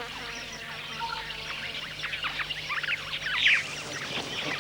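A dense chorus of small wild birds, many short chirps and sweeping calls overlapping, with one louder call a little past the middle, over a faint steady low hum.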